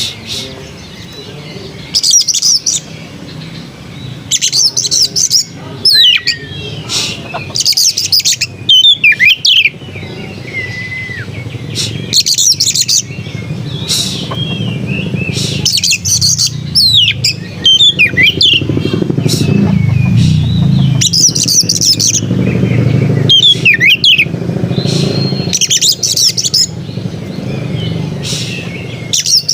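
Oriental magpie-robin singing: loud, varied whistled and chirping phrases that come every second or two, with short gaps between, over a steady low rumble.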